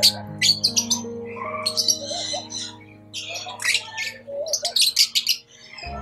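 Fischer's lovebirds chattering: clusters of shrill, rapid chirps and squawks every second or so. Background music with long held notes plays under them.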